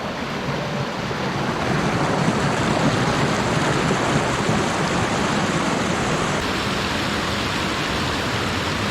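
Water rushing steadily over a creek spillway, the steady noise of falling water, a little louder from about a second and a half in.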